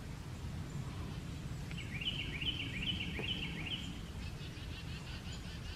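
A bird calling in a series of about five or six short falling notes, followed by a fainter run of quicker notes, over a steady low outdoor background noise.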